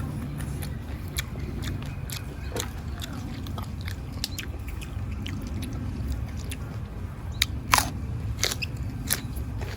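A person chewing and biting food close to the microphone: raw beef and fresh raw vegetables, with scattered sharp clicks and crunches, the loudest a little before the end. A steady low hum runs underneath.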